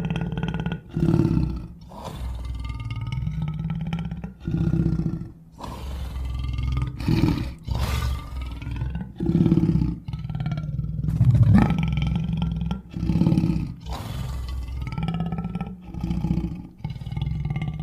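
A string of monster roars and growls made as creature sound effects: about ten loud bursts a second or two apart, some with a bending, wavering pitch, over a low steady rumble.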